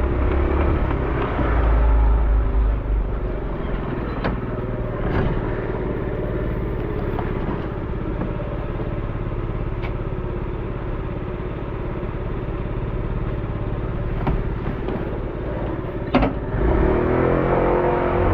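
Small motorcycle engine running steadily while riding, over a constant hiss of road and wind noise, with a few sharp clicks.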